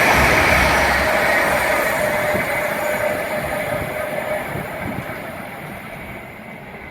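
Train rolling past on the main line, its wheel-on-rail rumble and hiss fading steadily as it draws away, with a faint whine that dies out about four seconds in.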